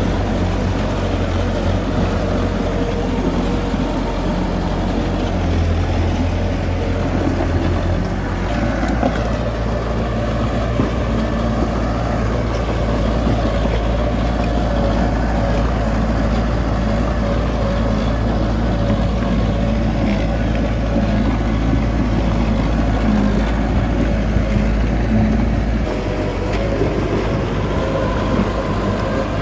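Diesel engine of heavy earthmoving machinery running steadily under load. Its low engine note shifts about eight seconds in and again near the end.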